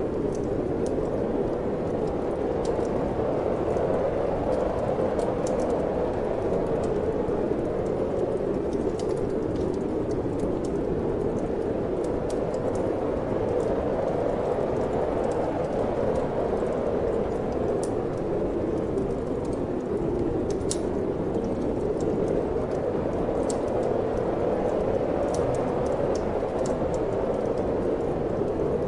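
Steady wind blowing, a low rushing noise, with the sparse light crackle and pops of a wood fire in a fireplace scattered over it.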